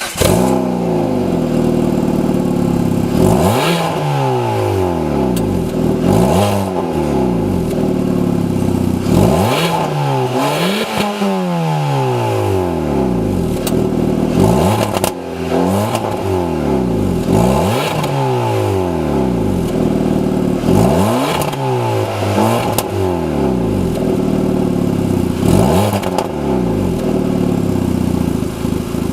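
Peugeot 206 1.6 16V four-cylinder petrol engine heard at the exhaust, revved again and again: each rev climbs quickly and then falls back more slowly toward idle, about a dozen times.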